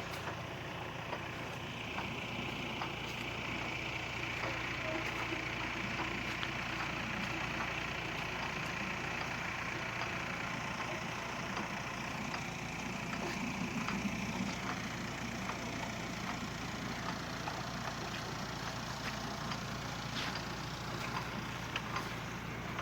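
Irrigation machinery running steadily: a constant mechanical hum with a hiss and scattered light ticks.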